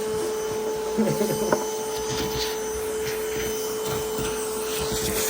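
A motor running with a steady, even hum at a constant pitch, with a few light knocks and rubbing sounds over it.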